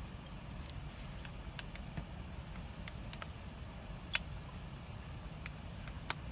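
Wood bonfire crackling: scattered sharp pops and snaps at irregular intervals, the sharpest about four seconds in, over a steady low rumble.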